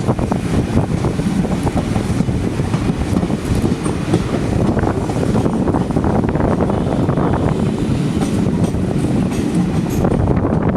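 Passenger train running along the rails: a steady rumble of wheels on track, with rattling and rapid clicks from the wheels and carriages.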